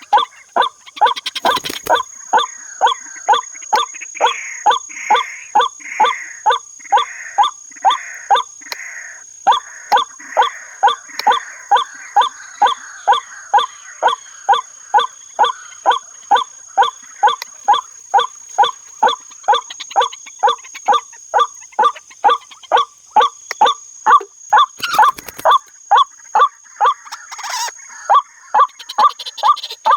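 White-breasted waterhen (ruak-ruak) calls: a short, nasal note repeated very evenly about twice a second without a break, over a steady high-pitched whine.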